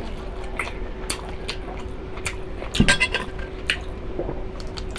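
Someone eating beef innards: wet chewing with scattered light clinks of utensils against a dish, a louder clink about three seconds in.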